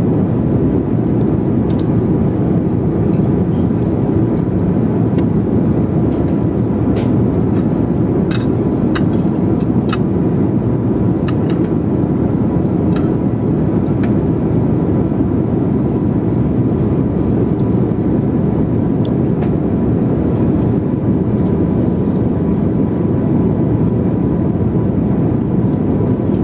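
Steady airliner cabin noise, the even rush of engines and airflow, with a faint steady tone through it. Scattered light clicks and taps in the first half.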